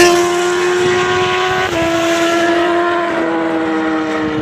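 Superbike inline-four engine running at high revs, a loud steady high-pitched note that sags slowly, with small shifts in pitch about a third and two thirds of the way in.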